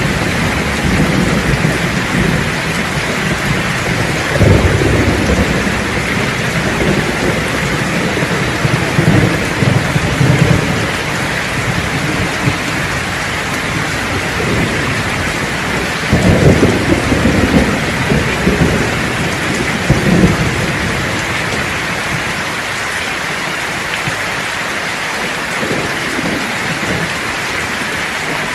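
Thunderstorm: steady heavy rain hiss with rolling thunder rumbling in several swells, the loudest a little past halfway, dying away to rain alone near the end.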